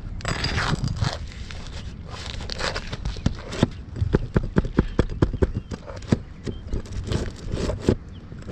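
Scraping, then a quick run of sharp taps, about four a second, from tools working under a lifted asphalt shingle to pull out the old roofing nails.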